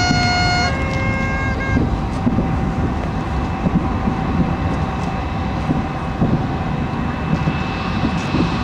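Distant fireworks booming and crackling in an irregular, rumbling barrage. Horns sound over it in the first second or two, then stop.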